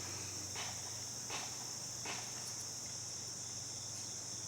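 Crickets trilling steadily in the background over a low, steady hum, with a few faint rustles of small parts being handled.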